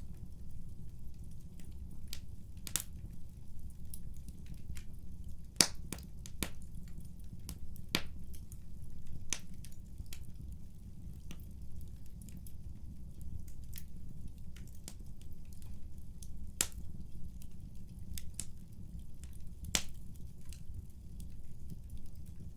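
Wood fire burning in a fireplace: a steady low rumble of flame with irregular sharp crackles and pops of burning wood, the loudest pop about a quarter of the way through.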